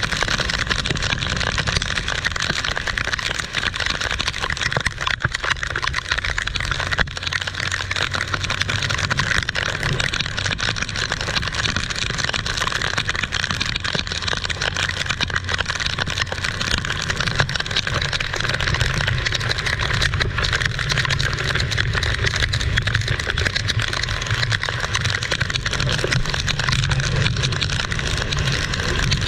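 Heavy rain falling steadily, with a low engine rumble from a vehicle that grows louder from about halfway through.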